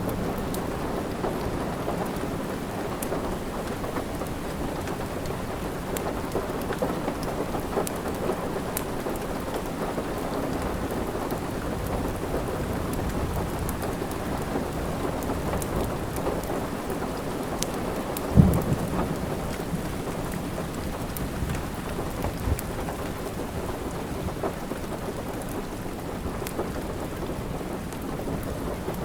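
Steady rain with scattered small crackles from a wood fire, and one loud low thump about eighteen seconds in.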